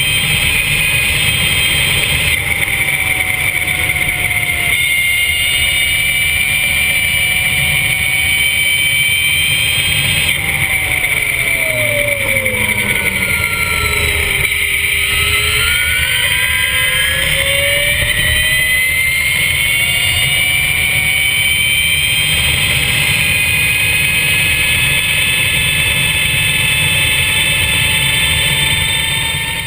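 Mission R electric superbike's motor whining at speed over a steady low rush. About halfway through, the whine drops in pitch as the bike slows, then rises steadily as it accelerates again.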